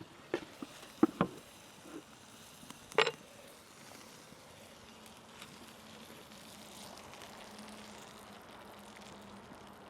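Campfire cooking: a few sharp pops or knocks in the first three seconds, then a steady sizzling hiss.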